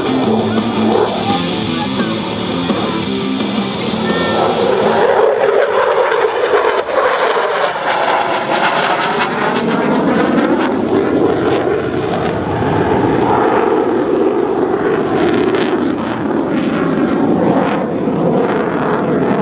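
F-16C fighter jet flying a fast, low display pass, its engine noise swelling about five seconds in and sweeping by with a phasing whoosh. Airshow PA music plays underneath, plainest in the first few seconds.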